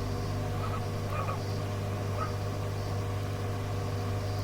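Steady low hum and hiss of an air-band radio recording between transmissions, with a few faint short chirps.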